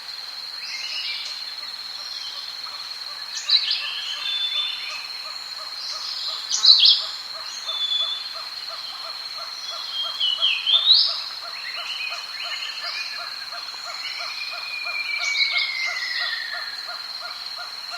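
Tropical rainforest ambience: a steady high-pitched insect drone and a rapid, regular pulsing call under it, with assorted sharp bird calls on top, loudest about a third and two thirds of the way in, and a long falling whistle near the end.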